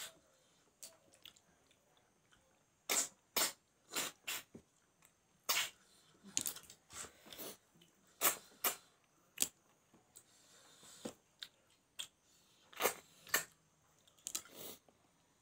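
Close-up chewing and mouth smacking while eating: irregular sharp, wet clicks, sometimes several in quick succession.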